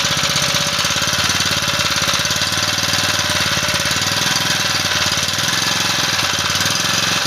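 Small 154 generator engine running steadily with a rapid, even firing rhythm, after a new ignition coil and spark plug were fitted.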